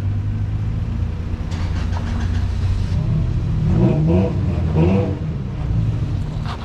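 Off-road 4x4 engine running, revving up twice in quick succession past the middle, with a short spell of hiss shortly before.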